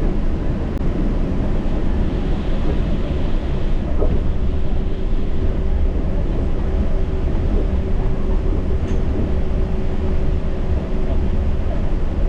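Yurikamome rubber-tyred automated guideway train running, a steady rumble heard from the front cab. A faint steady hum sits over it for several seconds in the middle.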